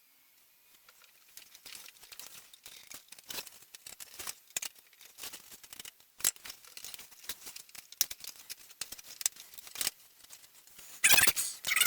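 Irregular light clicks, taps and scrapes of wooden kit parts being handled and fitted together on a bench, with a louder rustling, scraping burst near the end.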